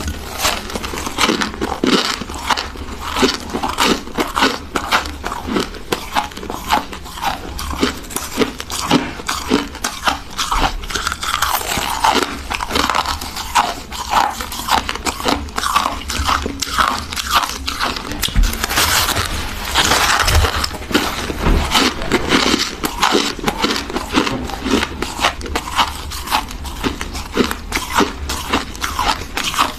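Close-up crunching and chewing of freezer frost: crisp, rapid crackly bites that go on without a pause.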